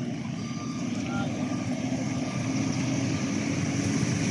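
A heavy vehicle's engine running with a low rumble, while a reversing alarm beeps during the first second or so.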